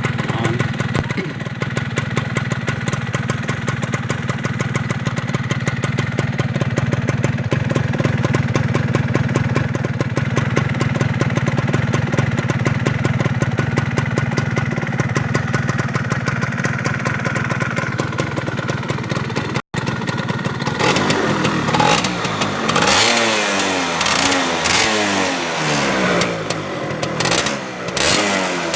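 Yamaha F1ZR two-stroke motorcycle engine idling steadily. About twenty seconds in, after a brief break, it is revved up and down several times, the pitch rising and falling.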